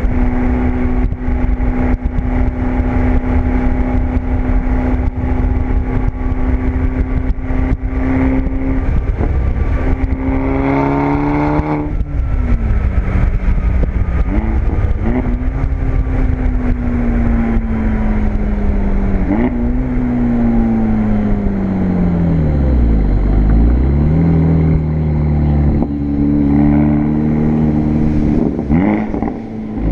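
Volkswagen GTI's turbocharged four-cylinder engine running through an APR turboback exhaust while driving. The note holds steady for several seconds, climbs sharply about ten seconds in, then falls away in several long drops, picks up again, and drops once more near the end.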